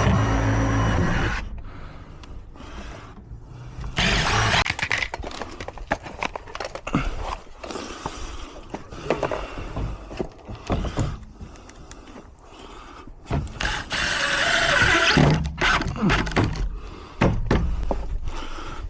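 Irregular clicks, knocks and clatter of tools and gate hardware being worked, with two louder stretches of rattling noise. A steady hum is cut off about a second in.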